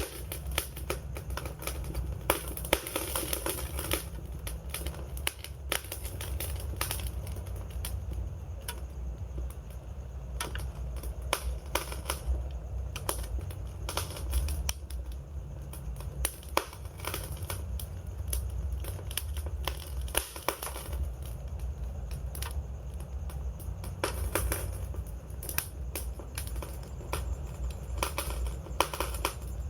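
Burning wood fire crackling: dense, irregular snaps and pops over a steady low rumble of the flames.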